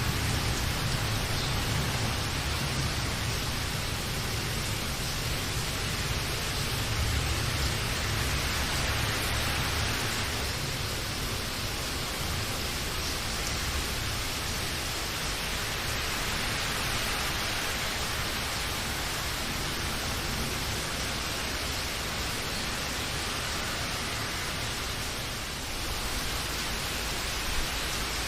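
Steady heavy rain, a dense continuous hiss of drops, with a low rumble underneath that fades out over roughly the first ten seconds.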